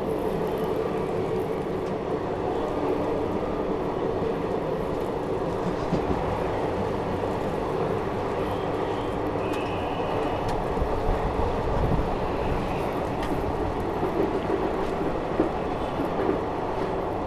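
Ranikhet Express passenger train running along the track: a steady rumble with a few light clicks.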